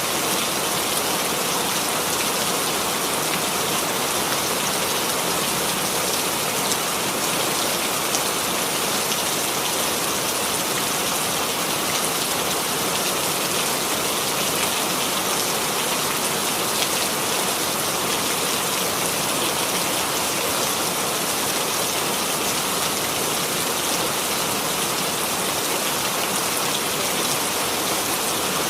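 Steady rain falling on a surface, an even patter of many drops with no thunder or change in intensity.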